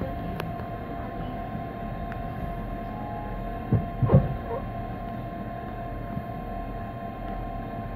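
Steady hum inside a passenger train, with two held high notes from its equipment. About four seconds in come two or three short, loud knocks.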